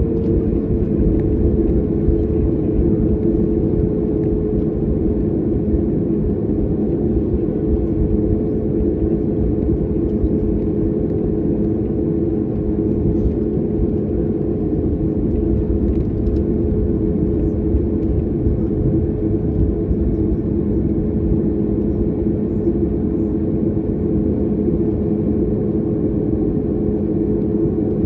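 Jet airliner engine noise heard from inside the passenger cabin: a steady, loud rumble with a constant hum.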